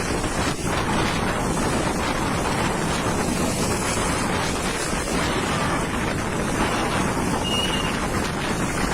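Strong storm wind buffeting the microphone: a steady, loud rushing noise with no letup.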